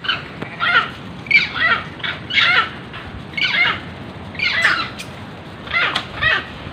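A pet macaque screaming: a run of short, high shrieks, each falling in pitch, about one to two a second.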